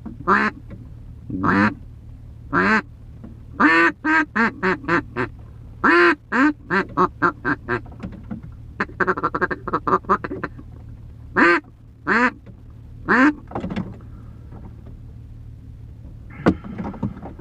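A freshly cleaned Pro Series duck call blown by mouth, quacking: single quacks at first, then fast runs of quacks, a quick chattering stretch around the middle, and more single quacks near the end. A steady low hum runs underneath.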